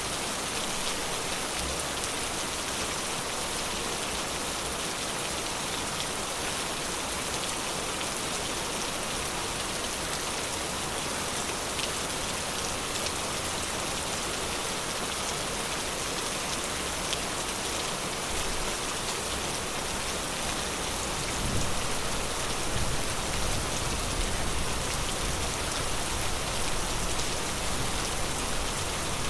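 Steady forest rain, a dense even hiss flecked with individual drops. About three-quarters of the way through, a low rumble comes in underneath and the rain grows a little louder.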